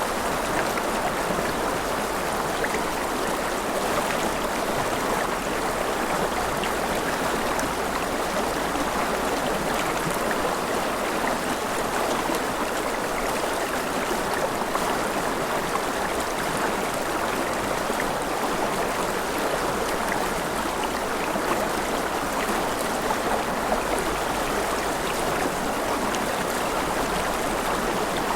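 Mountain river running over rapids: a steady rush of flowing water with small splashes scattered through it.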